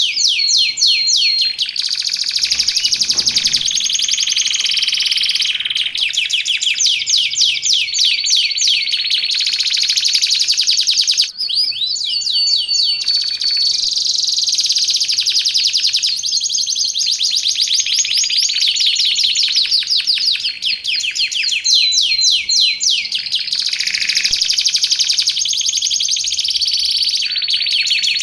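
Canary singing continuously: long fast trills and rattling chirps, broken by short held whistled notes. A loud song of the kind used as a master recording to teach canaries or to lure them.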